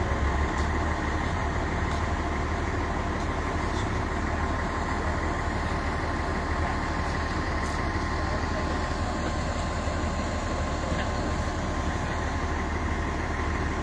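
Heavy vehicle engine idling steadily, a continuous low rumble with a thin steady tone above it.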